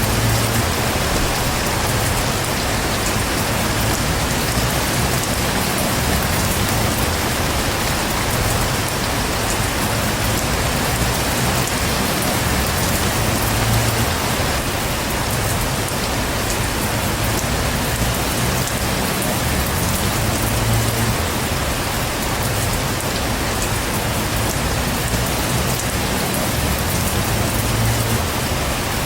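Heavy rain falling steadily on a surface, a dense even hiss with a soft low rumble that swells and fades every few seconds.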